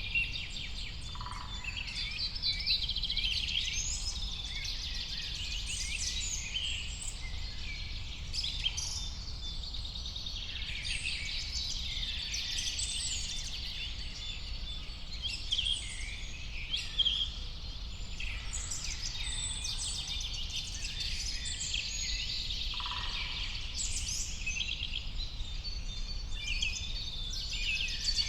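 A chorus of many songbirds singing and calling at once, overlapping chirps and trills with no pause, over a steady low background rumble.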